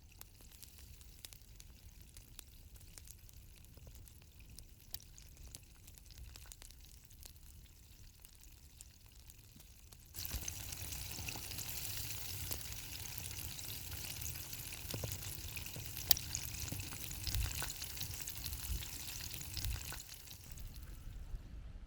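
Chicken frying in hot oil, a steady sizzle full of small crackles that gets suddenly louder about ten seconds in.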